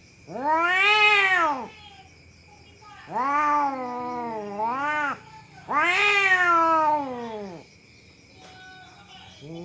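Cat yowling: three long, drawn-out howls, each rising and then falling in pitch, the middle one dipping and rising again before it ends.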